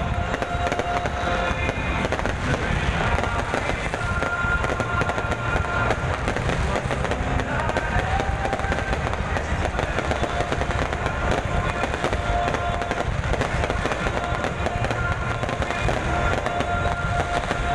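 Aerial firework shells bursting in quick succession in a large display, a dense, unbroken run of bangs and crackling.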